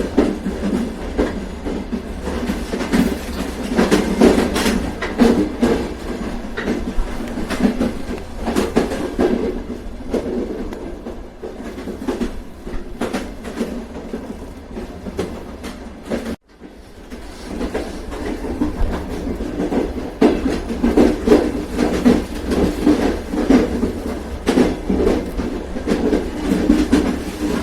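Train running on rails: a steady low rumble with the clickety-clack of wheels over the rail joints. The sound drops out for a moment about two-thirds of the way through and swells back.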